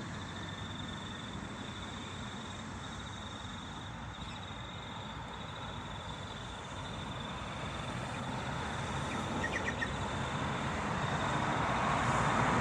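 A train approaching, its rumble growing steadily louder over the second half, with a steady high-pitched insect buzz throughout.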